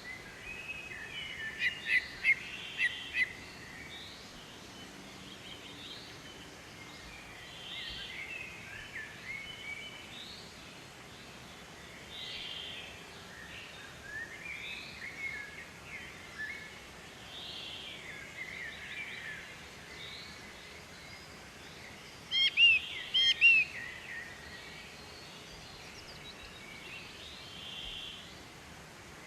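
Birds calling and singing, many short overlapping calls, with louder runs of sharp, rapid chirps about two seconds in and again near the end, over a faint steady hiss.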